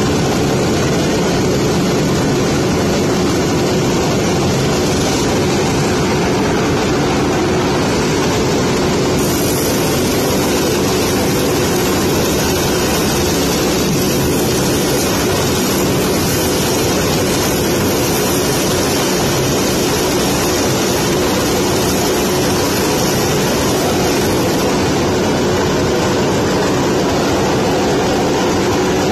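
A loud, steady mechanical roar with a constant hum under it, unbroken throughout.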